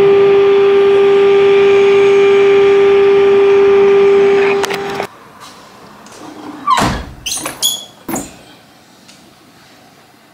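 A loud, steady siren tone, an air-raid warning, held for about five seconds and cutting off abruptly. A few seconds later come a handful of sharp clicks and knocks as a plastic window sash is shut and its handle turned.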